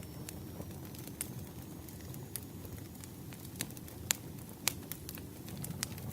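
Campfire crackling: scattered sharp pops and snaps over a steady low rumble of burning, with the two loudest pops a little past the middle.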